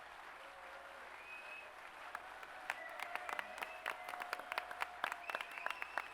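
Audience applauding. The clapping is an even patter at first and turns into sharper, more distinct individual claps about halfway through.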